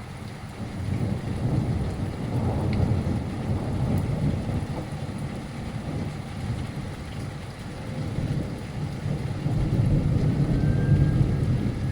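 Thunder rumbling in long rolls from a heavy thunderstorm, swelling about a second in and again near the end, over steady heavy rain.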